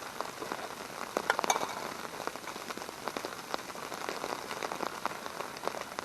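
Food sizzling and crackling in a small frying pan, with a cluster of louder pops about a second and a half in.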